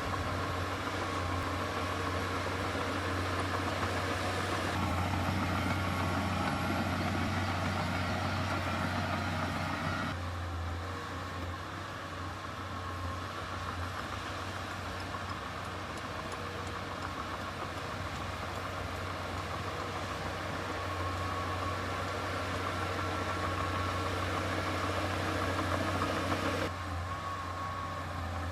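Diesel engine of heavy earthmoving machinery running steadily with a deep hum. The sound shifts abruptly about 5 seconds in, again about 10 seconds in, and drops near the end.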